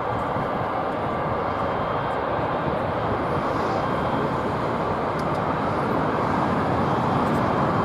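Jet airliner engines, a steady loud rushing noise that grows slightly louder near the end.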